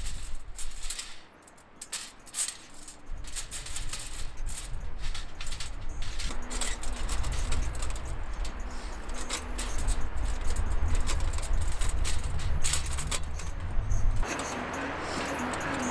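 Repeated light metallic clinks and rattles, with wind buffeting the microphone. A faint melody comes in near the end.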